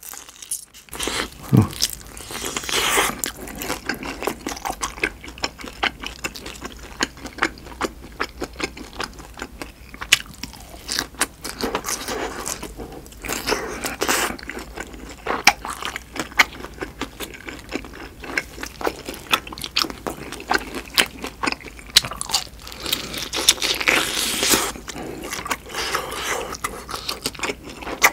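A person biting and chewing duck bulgogi dumplings, a dense run of short wet mouth clicks, louder in a few spells.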